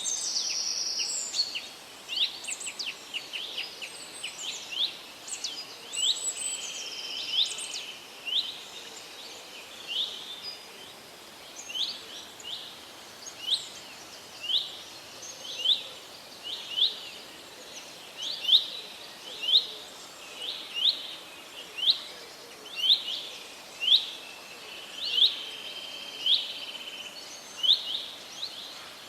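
Woodland birds singing and calling, several voices overlapping at first, then one bird repeating a short sharp chirp about once a second, over a faint steady hiss of background noise.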